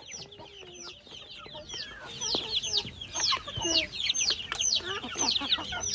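Chicks peeping: many short, high-pitched chirps that fall in pitch, several a second, growing louder after about two seconds.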